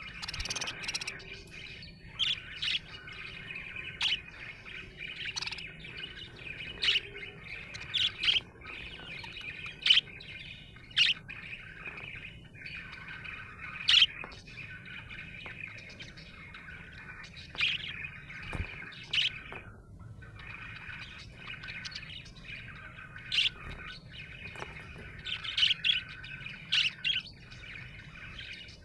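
Budgerigar warbling and chattering steadily, broken by short, sharp chirps every second or two.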